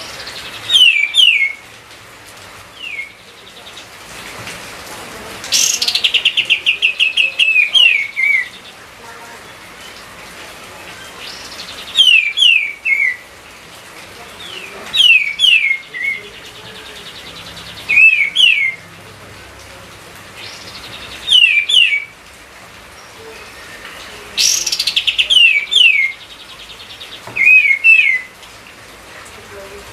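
Kapas tembak songbird singing loudly in short phrases of two or three sharp, falling whistles every few seconds. Twice, about six seconds in and near the end, a phrase opens with a fast buzzy rattle.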